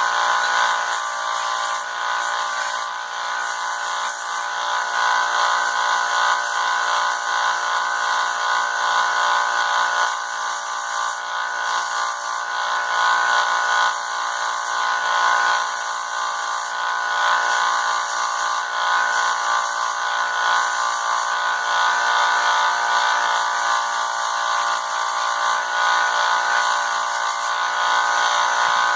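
Electric belt sander running steadily with a high-pitched motor whine as a steel Damascus billet face is ground on it.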